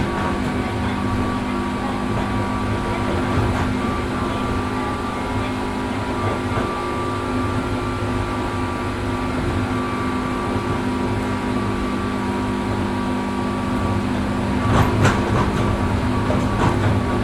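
Inside a 103 series 1500-subseries electric train running at steady speed: a steady whine from the traction motors and gears over the rumble of the wheels on the rails. A short run of clicks from the wheels crossing rail joints comes near the end.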